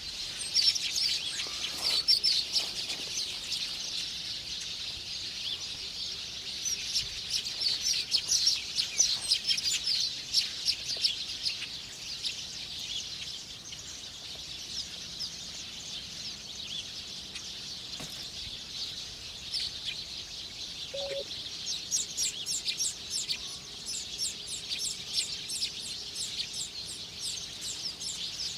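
Small birds chirping: a dense run of rapid, short, high-pitched chirps, busier at the start, around the middle of the first half and again near the end.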